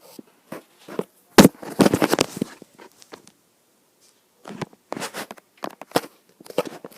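Irregular knocks, clicks and rustling, with one sharp knock about a second and a half in and another cluster of clicks in the second half.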